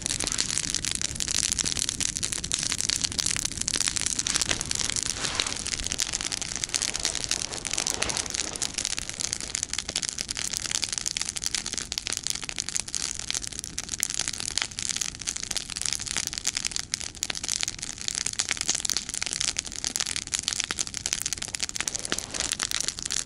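Campfire burning well, its wood crackling densely and steadily.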